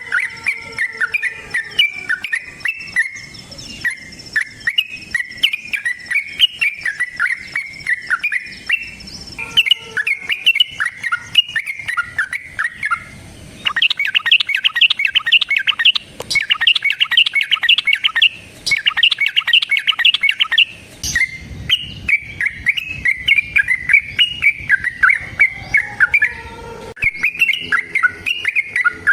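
Yellow-vented bulbul (trucuk) singing a long, continuous run of quick chattering notes. In the middle comes a stretch of faster, denser and higher chattering, broken into sections that start and stop abruptly.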